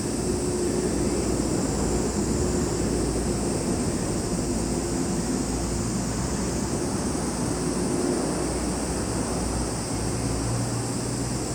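Steady high-pitched chorus of summer insects, cicadas and crickets, running without a break over a low steady rumble.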